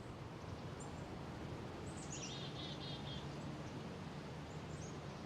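Small birds chirping now and then, with a quick run of repeated chirps about two to three seconds in, over a steady low background noise.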